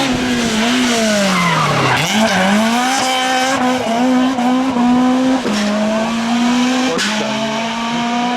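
Naturally aspirated Group F2000 rally car engine at full attack. The revs fall sharply under braking about two seconds in, then it accelerates hard, the pitch stepping down at upshifts about five and a half and seven seconds in and climbing again after each.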